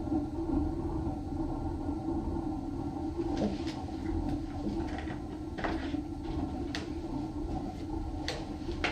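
Home-made waste-oil stove burning with a steady low rumble as it warms up after lighting. A few sharp clicks come in the second half.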